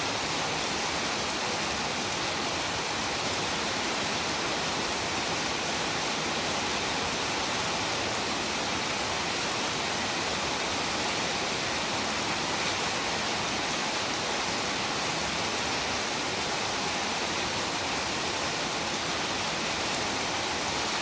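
Heavy rain falling steadily, a dense, even hiss that holds at one level throughout.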